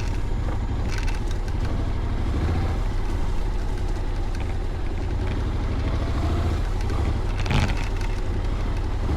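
Steady engine and wind rush from a motorcycle on the move, heavy low rumble throughout, with a brief louder whoosh about seven and a half seconds in.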